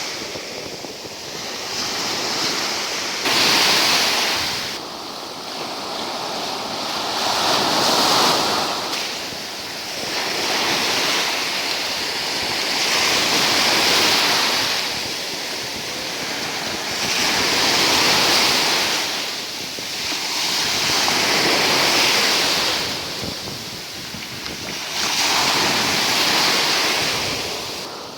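Black Sea surf: waves breaking and washing up the shore, swelling and fading about every four to five seconds.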